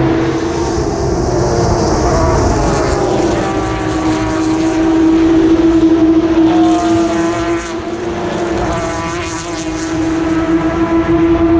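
Endurance race cars accelerating one after another through a corner, their engine notes rising in pitch as they pass. A steady drone sits under them.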